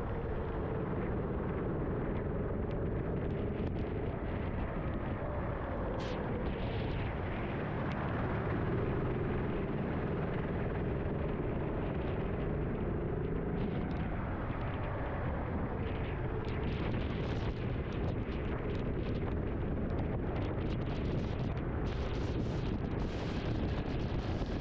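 Onboard sound of a racing kart's engine, its pitch rising and falling as the driver works through the corners, over a constant noisy rush.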